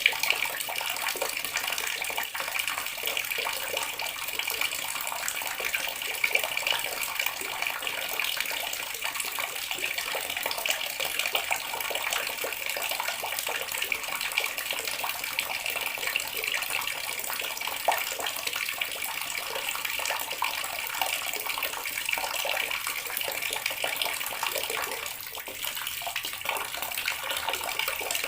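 Water running steadily from a tap, a continuous splashing stream with a slight dip in level near the end.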